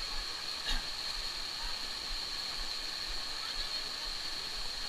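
Steady rushing of water, an even hiss with one brief knock just under a second in.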